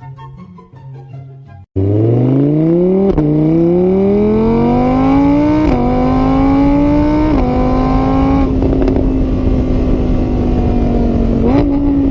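Car engine accelerating hard through the gears: its pitch climbs, drops back at each of three gear changes, then holds steady at speed. It cuts in suddenly about two seconds in, after a moment of soft music.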